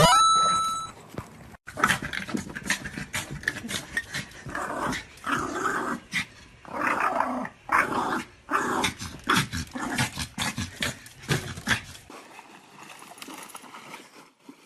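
Dog growling and snarling in rough play or scuffling, with many sharp clicks and bumps through it, dying down about two seconds before the end. It opens with a brief loud rising whistle-like glide.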